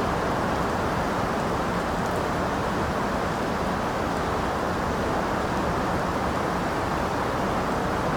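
Steady rain, an even hiss that does not rise or fall.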